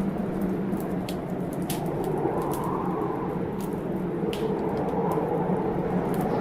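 Wood fire crackling in a fireplace, with scattered sharp pops, over the steady rumble of a storm.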